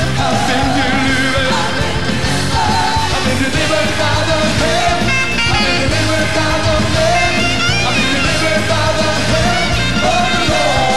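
Live upbeat gospel praise music: a full band plays steadily while voices sing a wavering melody over it.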